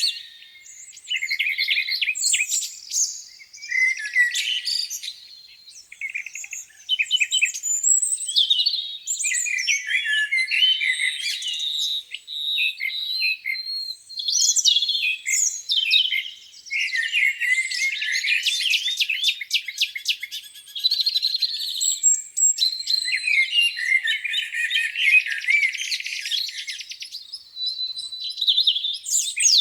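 Several songbirds singing over one another: a dense, continuous stream of high chirps, trills and whistles with only brief gaps.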